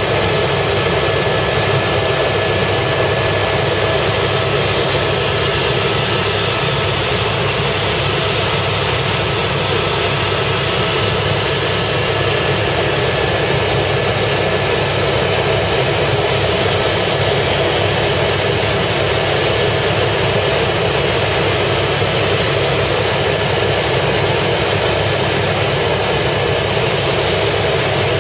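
Helicopter in flight: a loud, steady drone of engine and rotor noise that holds unchanged throughout.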